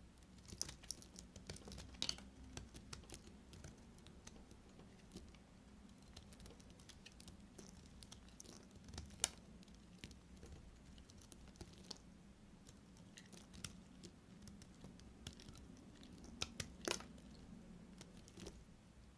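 Knife cutting through soap: scattered crisp crackles and clicks, with one sharp snap about halfway through and a quick cluster of crackles near the end.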